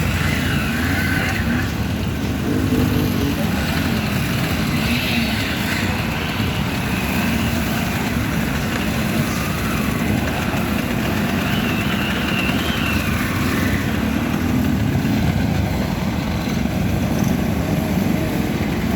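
Vintage motorcycle engines running, their pitch wavering slowly up and down, with people talking in the background.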